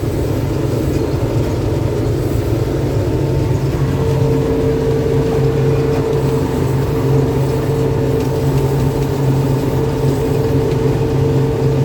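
Combine harvester running steadily while cutting winter barley: a constant engine and threshing drone, with a steady hum that grows a little stronger about four seconds in.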